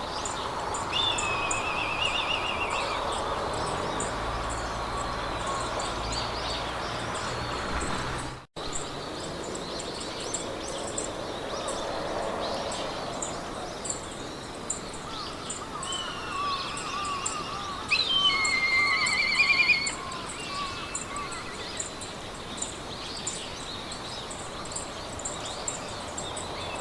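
Meadow ambience: a steady hiss of wind through grass, with birds singing short trills, loudest about two-thirds of the way through, over an even run of high insect chirps. The sound cuts out for an instant about a third of the way in.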